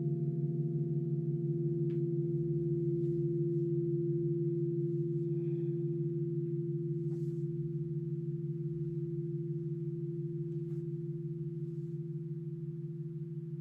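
Crystal singing bowls ringing out after being played: a few steady pure tones, low and mid, with a slow pulsing beat between them, gradually fading.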